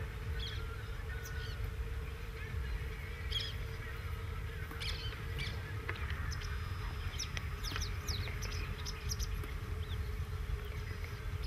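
Birds calling in many short, sharp high notes, coming in clusters and thickest after the middle, over a steady low rumble and a faint steady hum.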